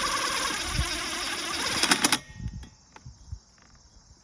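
Power drill boring a hole into a pit bike's muffler: a high whine with metal grinding that stops abruptly about two seconds in, followed by a few faint clicks.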